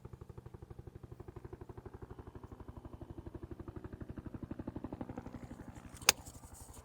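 Helicopter rotor chopping in a steady, rapid pulse that swells and fades. About six seconds in comes one sharp crack of a golf iron striking the ball, a thinned shot caught low on the clubface.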